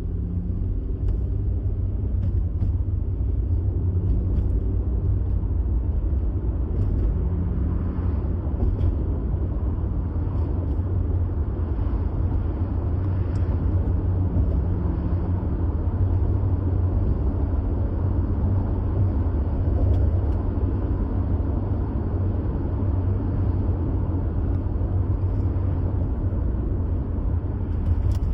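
Car being driven at a steady speed: a continuous low road and engine rumble with tyre noise, no changes in pace.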